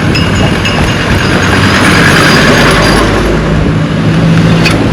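Road traffic: a vehicle passing close by, its noise swelling to a peak about two seconds in and then easing, with a steady engine hum near the end.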